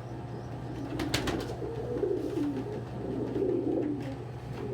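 Domestic pigeons cooing steadily, with a short rattle of sharp clicks about a second in.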